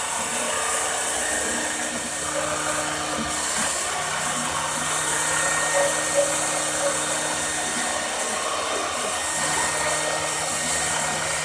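An electric machine motor running steadily with a whirring hiss, with a few light clicks about six seconds in.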